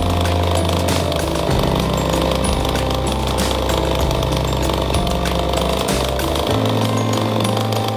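A 49cc high-performance small engine running steadily, with its speed shifting about a second and a half in and again near the end.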